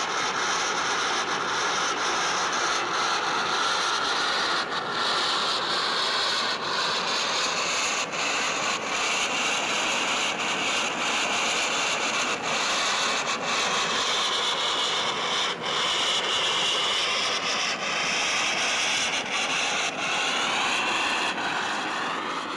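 Steady running noise of an IPK-1000 induction steam boiler in normal operation at about 3 bar: an even hiss with faint high whines that drift in pitch.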